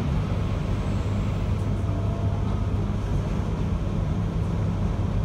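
Inside a JR Hokkaido 721 series electric train running between stations: a steady rumble of wheels on rail with a low hum.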